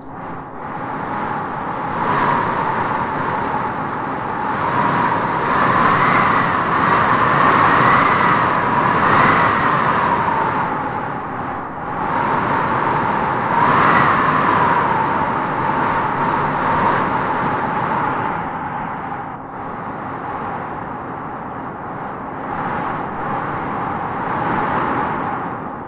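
Wind howling over a steady rush, its whistling tone swelling and rising in pitch with each gust, strongest about six to ten seconds in and again around fourteen seconds.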